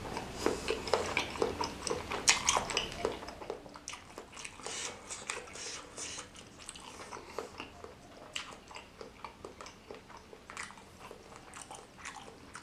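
Close-miked chewing of spicy meatball soup with noodles and chillies: many short, wet mouth clicks. They are busiest and loudest for the first few seconds, then sparser and softer.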